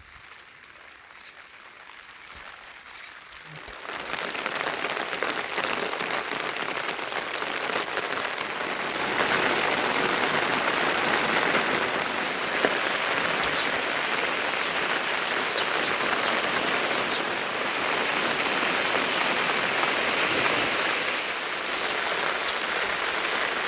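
Rain falling steadily, coming in about four seconds in after a quieter start and growing louder a few seconds later.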